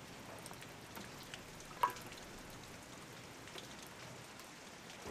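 Faint steady rain patter with scattered light drips, and one short sharp click about two seconds in.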